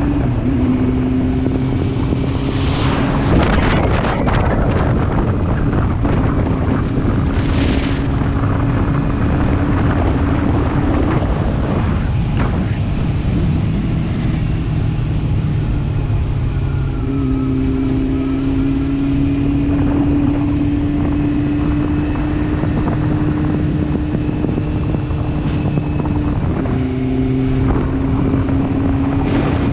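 Motorcycle engine running while riding, with wind noise on the microphone. The engine's steady note steps up or down in pitch a few times.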